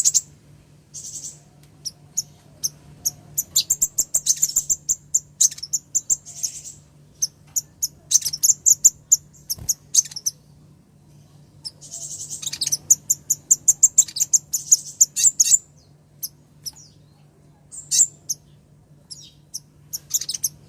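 Female kolibri ninja (a sunbird) calling: high, sharp chips, some single and some strung into fast twittering runs, in bursts of a few seconds. A faint steady low hum runs underneath.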